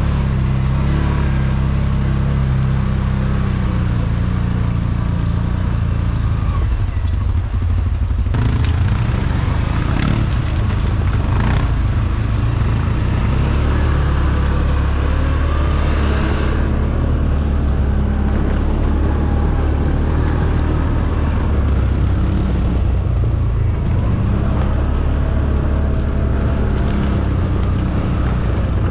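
CFMoto CForce ATV engine running steadily under way, with a few sharp knocks and rattles about a third of the way in. A higher rushing noise over it drops away a little past halfway.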